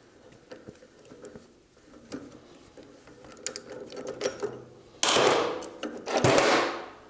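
Ratchet wrench clicking as it turns a gear puller to draw a band saw's bottom pulley off its shaft: faint clicks at first, then two loud, quick runs of clicking near the end.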